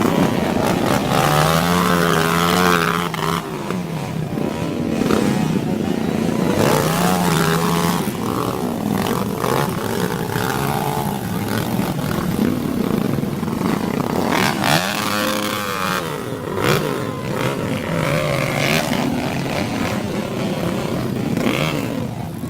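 Dirt bike engines revving, the pitch rising and falling again and again as the throttle is worked, with a few sharp knocks in between.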